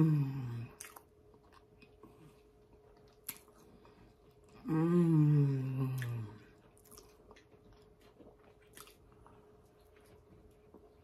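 A person chewing a bite of chicken sandwich, with faint mouth clicks. Twice she hums a falling "mmm": right at the start and again about five seconds in.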